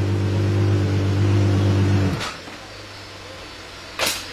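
Apollo Intensa Emozione's naturally aspirated V12 idling steadily, then switched off about two seconds in, its sound cutting out abruptly. A single sharp knock near the end.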